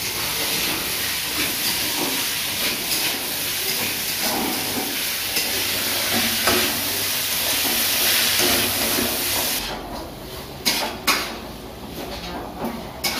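Boiled chickpeas sizzling in spiced oil in a metal kadai as a metal spatula stirs them, a steady hiss. About ten seconds in the sizzle drops away, leaving a few scrapes and knocks of the spatula against the pan.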